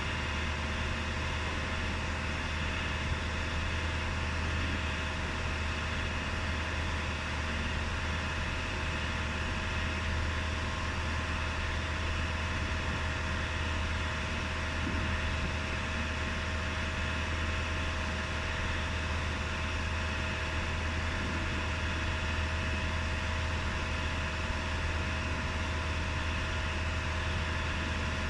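Ford Crown Victoria's V8 engine idling steadily.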